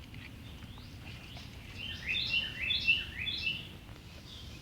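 A bird singing outdoors: faint chirps, then about two seconds in a phrase of four similar high notes, repeated about half a second apart.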